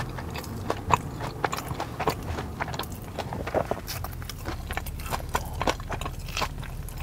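Chewing a mouthful of Korean corn dog close to a clip-on microphone: irregular crunches and wet mouth clicks, several a second.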